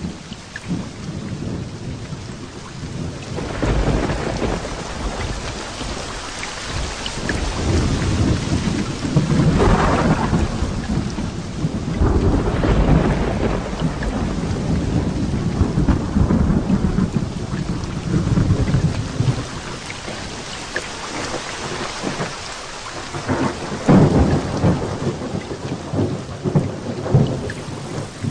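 Heavy rain pouring steadily with thunder rolling through it. Long low rumbles build a few seconds in and carry on for several seconds, and two sharper claps come near the end.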